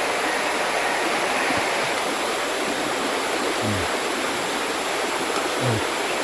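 Mountain river running steadily, an even wash of water noise. Two brief low sounds stand out, one about halfway through and one near the end.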